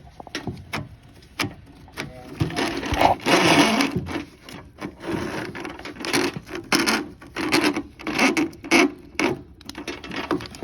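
A drain snake being worked into a clogged drain line toward a drum trap: a few sharp knocks and clicks, then repeated rough scraping and rubbing as the cable is pushed and twisted against the blockage.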